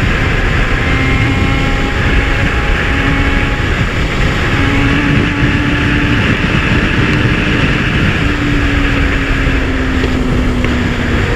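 Kawasaki Z1000 inline-four motorcycle engine running at a steady cruising pace, under heavy wind rush on the microphone; the engine note eases slightly lower near the end.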